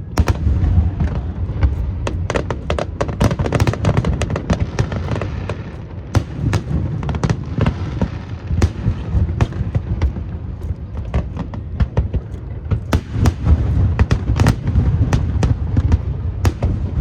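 Aerial fireworks display: a dense, continuous barrage of bangs and crackles over a deep rumble of shell bursts.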